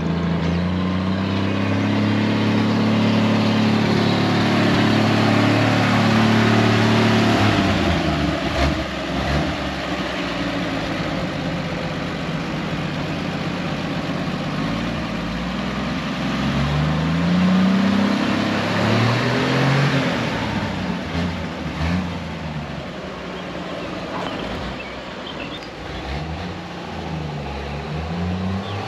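A 1961 Chevrolet C-10's 235 straight-six pulls under load as the truck is driven. Its pitch climbs steadily for the first seven seconds or so, drops, then rises again in several shorter runs as it accelerates through the gears, with road and wind noise underneath.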